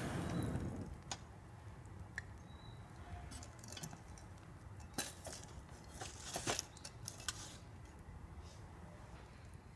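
Scattered light clicks and clinks, a second or more apart, over a faint background, with a louder clatter about six and a half seconds in.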